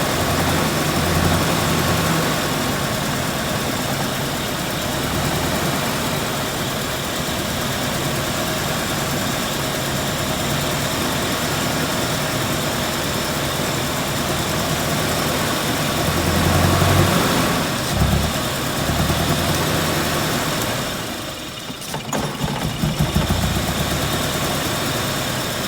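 Car engine idling with a steady hum that wavers a little in pitch, dipping briefly a little past four fifths of the way in before picking up again.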